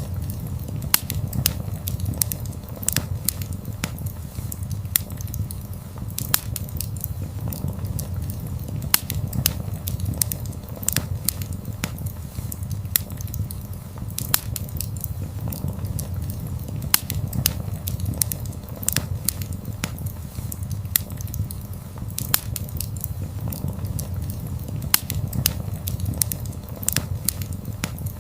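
Wood fire burning, crackling and popping irregularly over a low, steady rumble of flames.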